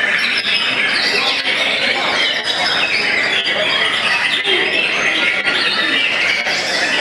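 Many white-rumped shamas (murai batu) singing at once: a dense, unbroken tangle of overlapping high whistles and harsh chattering notes.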